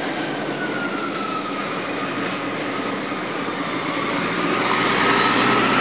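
Motor vehicle engine running over wind noise, with a whining tone that slides down and later rises. It grows louder near the end.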